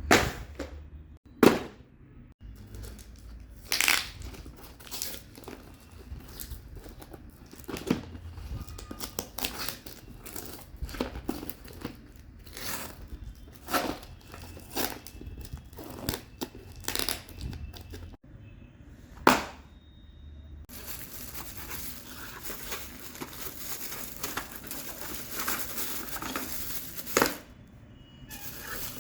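Packaging being handled and opened: crinkling and tearing with scattered sharp clicks and knocks. For most of the last third it turns into a denser, steady rustling.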